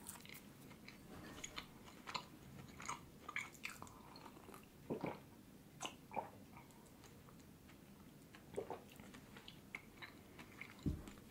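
Quiet close-up chewing and mouth sounds of someone eating soft hummus and flatbread, with faint wet clicks scattered throughout. A couple of louder sips from a mug come around the middle, and a low thump comes near the end.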